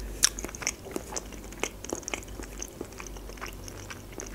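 Close-miked chewing of a mouthful of mussels: wet mouth clicks and smacks at an uneven pace.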